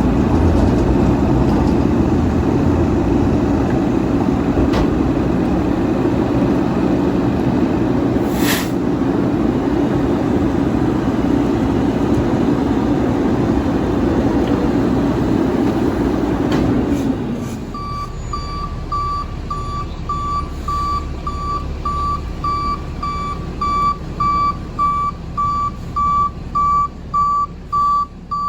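Straight-piped engine of a Mack MR garbage truck running loud and steady, with one short sharp sound about eight seconds in. The engine then drops away and the truck's back-up alarm beeps evenly, about two beeps a second.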